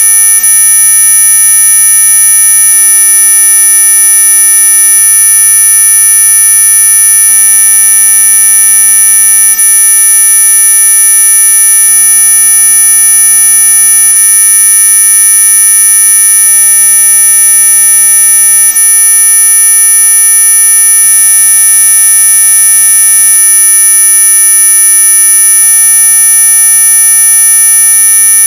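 Synthesized anti-mosquito repellent tone: a loud, unchanging electronic buzz made of many steady tones sounding together, with the shrillest high-pitched ones strongest.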